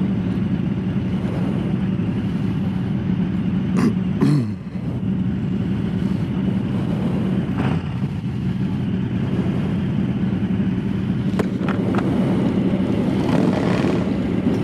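Harley-Davidson Low Rider S motorcycle's Milwaukee-Eight V-twin idling steadily, with a short falling engine note about four seconds in and a few sharp clicks.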